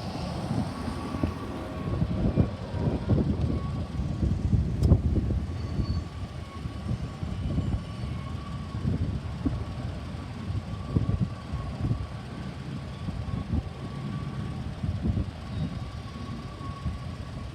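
BNSF freight train rolling past with a low, uneven rumble and a steady high squeal.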